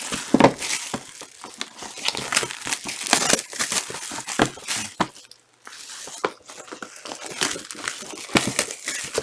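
Foil trading-card pack wrappers crinkling and tearing as packs are ripped open and handled, in irregular crackly bursts with a short pause about five seconds in.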